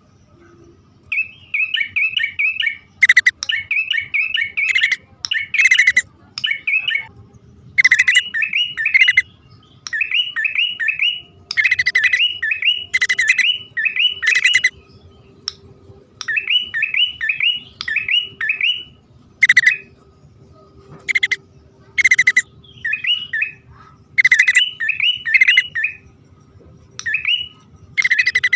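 Male and female prinias (prenjak) calling, a recording used as a trapping lure: burst after burst of quick, repeated chirping notes broken by short pauses, mixed with harsh scratchy calls.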